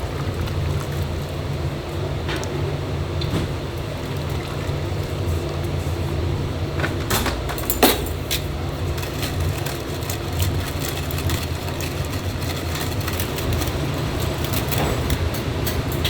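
Steady low mechanical hum, with a few sharp clicks and a clatter about seven to eight seconds in.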